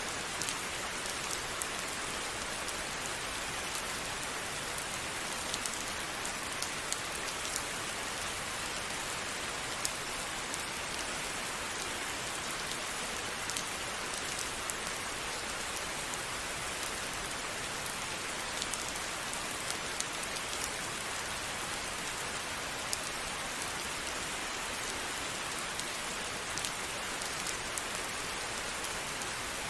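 Steady rain falling, an even hiss with scattered individual drop ticks hitting a surface.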